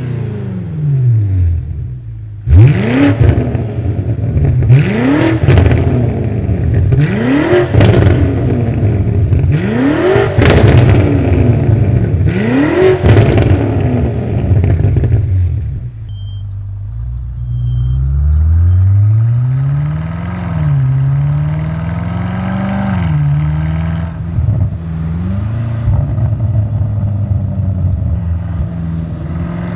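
BMW M5 Touring's twin-turbo V8 through a DCE catback exhaust with X-pipe and OPF delete, revved hard five times, one blip every two to three seconds, each shooting up and falling straight back. After a short lull comes a slower, longer climb in revs and a few smaller blips.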